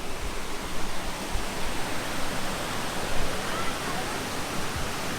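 Steady rush of water pouring down a waterfall, an even hiss with no breaks.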